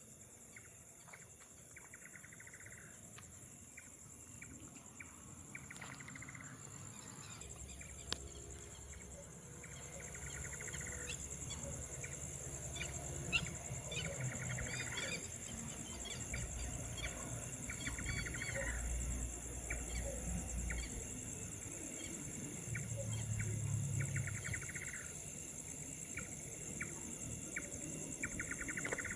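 Night-time outdoor ambience: a steady high-pitched insect chorus, with a short trilling call lasting about a second repeated roughly every four seconds. A low rumble rises underneath from about a quarter of the way in.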